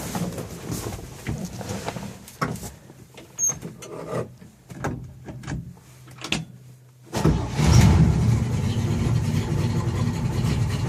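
A few scattered clicks and knocks, then about seven seconds in the 1967 truck's original straight-six starts with a brief crank and catches. It flares up, then settles into a steady cold idle.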